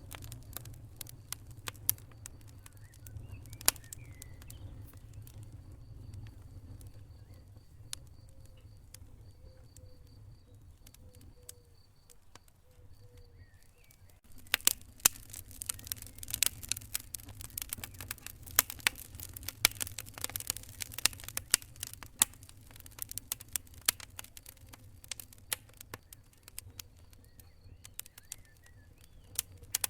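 Wood fire crackling: scattered sharp pops over a low steady rumble, turning into much denser, louder crackling from about halfway.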